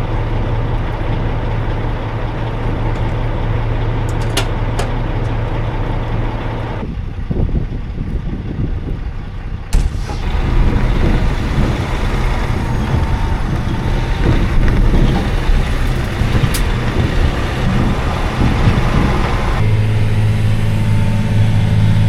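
Heavy diesel farm machinery running steadily with a strong low hum; the sound changes abruptly a few times, at about seven, ten and twenty seconds in, as shots change, and there are a few short sharp clicks.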